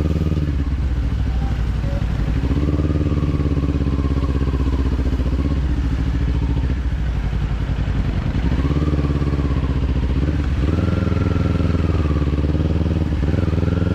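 Kawasaki parallel-twin motorcycle engine with an aftermarket slip-on exhaust, under way with the revs falling and climbing as the throttle opens and closes through gear changes. The revs climb steadily again near the end.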